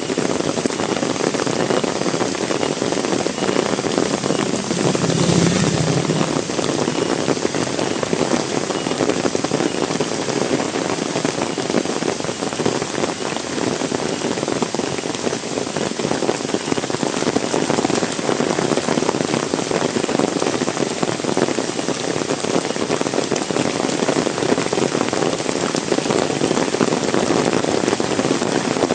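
Heavy rain falling steadily, a dense, even patter of drops on the ground and surfaces. A brief, louder low thump or swell comes about five seconds in.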